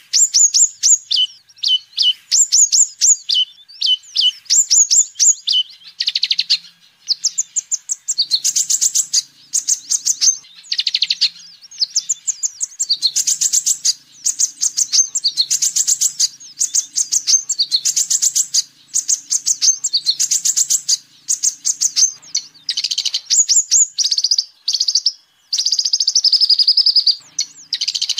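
A sunbird of the kind sold in Indonesia as 'kolibri ninja' singing in full, vigorous song: rapid high-pitched twittering chirps and trilled phrases, repeated over and over with brief pauses.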